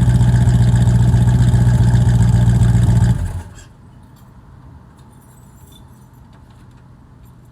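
Big-bore V8 car engine idling steadily with a deep, throaty note, then shut off about three seconds in, leaving only a few faint clicks.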